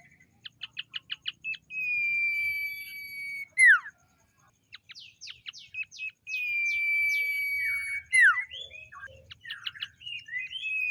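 Common iora singing. A quick run of about eight short chirps is followed by a long, steady whistle that drops sharply at its end. A second such whistle comes about midway, with varied chirps before and after it.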